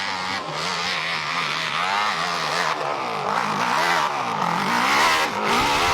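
Racing motorcycle engines at high revs, the pitch rising and falling repeatedly as the bikes accelerate, shift and brake.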